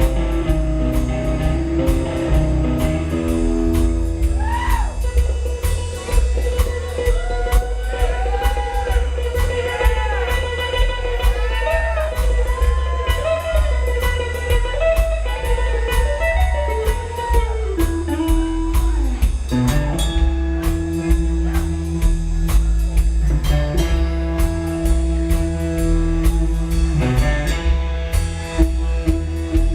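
Live rockabilly band with electric guitar, bass and drum kit playing, loud and driving. A guitar solo with notes bent up and down runs through the middle, then the band returns to steady chords near the end.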